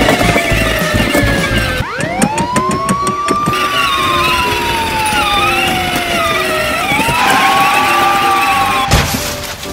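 Police siren wailing: one tone slides slowly down, sweeps back up and falls again, twice over, then stops abruptly near the end.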